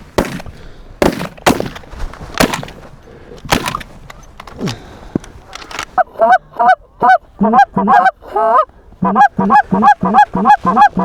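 A volley of about five shotgun shots in the first four seconds, then from about six seconds in a rapid run of Canada goose honks, two or three a second.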